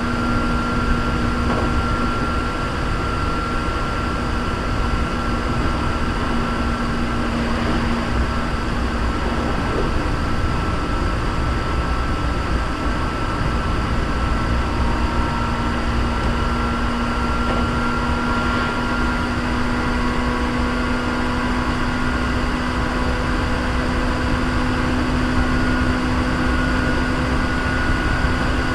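Hankyu 3300 series electric train running at speed, heard from inside the carriage: a steady rumble of the wheels on the rails with a steady whine that drifts slowly in pitch.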